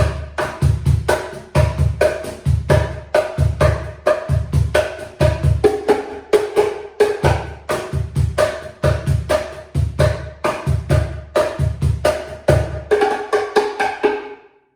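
Cruz bongo cajon played with the hands in a fast, steady groove: deep bass strokes recur between quick runs of higher-pitched tone and slap strokes. The playing stops just before the end.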